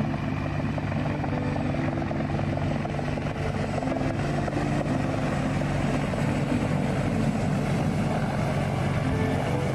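Helicopter running steadily, its rotor and engine noise continuous throughout.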